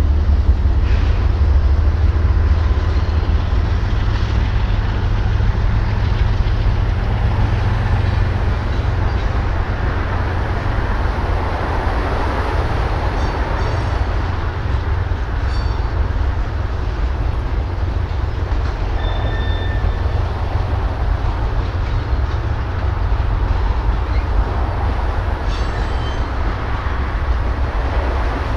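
Diesel-hauled freight train moving through a rail yard: a steady low diesel rumble with rolling wheel noise, and a brief high squeal about two-thirds of the way through.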